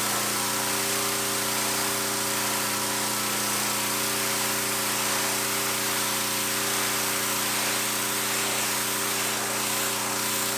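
Kohler-engined Simpson gas pressure washer running steadily: an even engine hum under the hiss of the high-pressure water spray.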